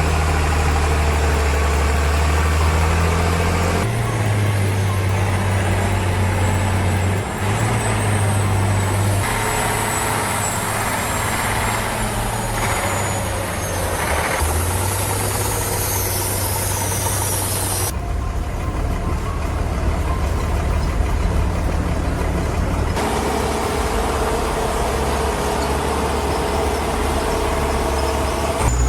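Heavy tractor engines running under load. The engine note changes abruptly several times, a new engine sound every few seconds.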